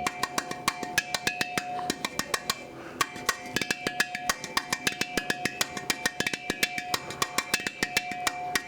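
Empty gas cylinder played as a percussion instrument: a fast, even rhythm of many sharp strikes a second, with the metal body ringing on at a few steady pitches.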